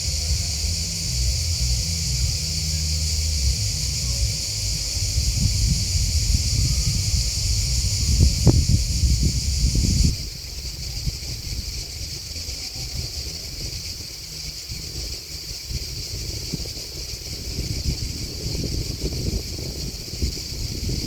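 Steady, high-pitched insect chorus with low wind rumble on the microphone. The chorus and the rumble both drop off abruptly about ten seconds in, then carry on more quietly.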